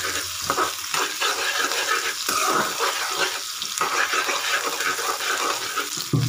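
Chopped onions and green chillies sizzling in hot oil in a nonstick kadai, stirred with a metal slotted spoon that scrapes the pan now and then.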